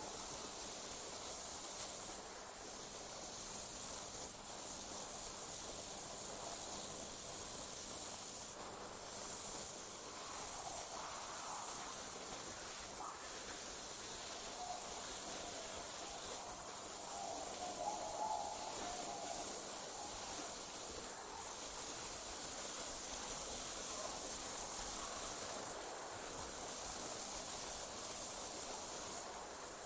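Night insect chorus, crickets: a continuous high-pitched trill that drops out briefly every few seconds and then resumes.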